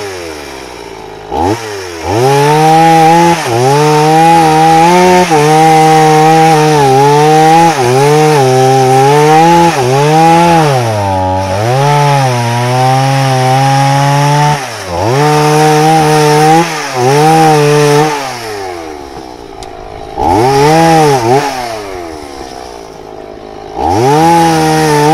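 Chainsaw cutting wood at full throttle, its engine pitch wavering and dipping as it loads in the cut, with a second shorter cut after a brief let-off. It then drops back to idle, with two short blips of the throttle near the end.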